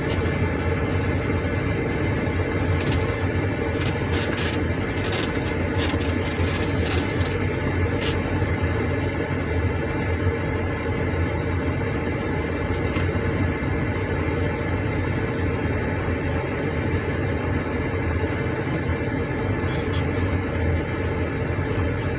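Car engine running with a steady low hum, heard from inside the cabin. A cluster of short clicks or rattles comes about three to eight seconds in.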